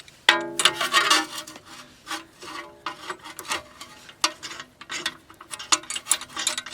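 Metal hand tools scraping and clinking on steel steering parts during tie rod removal: irregular rasping strokes, with a brief metallic ring about a third of a second in.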